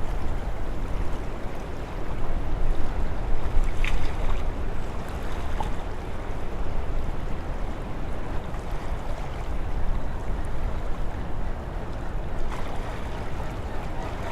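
Steady rushing noise of wind and lake water, as from a boat under way, with the wind buffeting the microphone.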